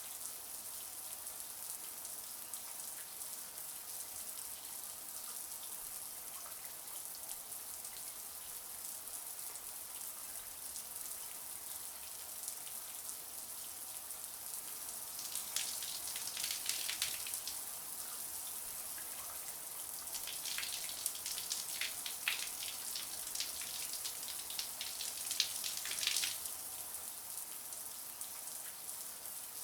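Shower spray running steadily, a high hiss of falling water. Spells of louder, crackling splashing come about halfway through and again twice near the end.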